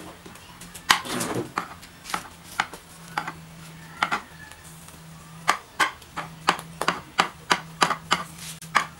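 Kitchen knife chopping boiled pork liver on a cutting board: sharp knocks of the blade on the board, scattered at first, then a steady run of about four chops a second in the second half.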